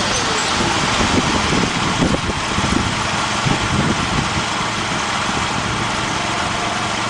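Gas engine of a Boaz mini combine running steadily.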